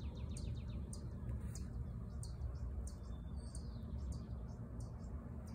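Birds chirping: short, high chips about two or three a second, irregularly spaced, with a few quick falling whistles at the start. A steady low rumble runs underneath.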